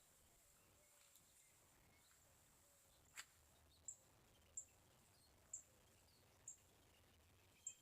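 Near-silent backyard with one faint sharp click about three seconds in, followed by a small bird's short, very high chirp repeated five times, about once a second.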